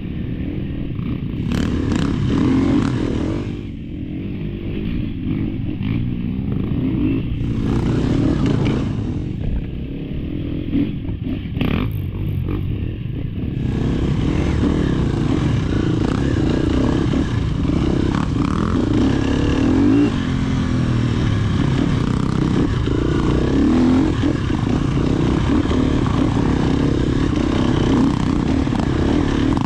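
Off-road dirt bike engine running, its pitch rising and falling with the throttle.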